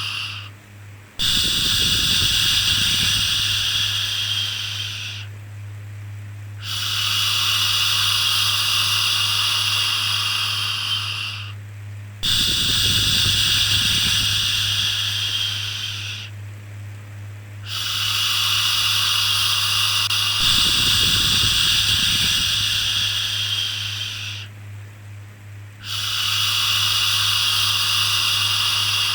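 Long shushing 'shhh' sounds for soothing a baby, repeated five times, each lasting four to six seconds with a pause of a second or two between, over a steady low hum.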